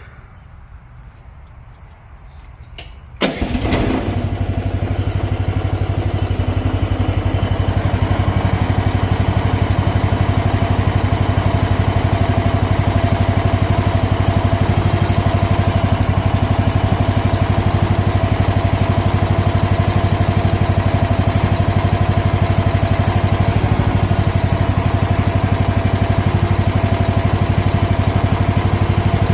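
Mini excavator's small engine starting about three seconds in, then running steadily.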